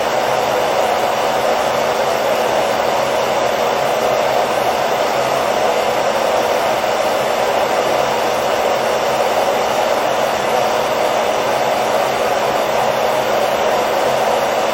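Hair dryer running steadily: a constant, even whooshing rush of blown air with a low motor hum underneath, played as white noise to lull a baby to sleep.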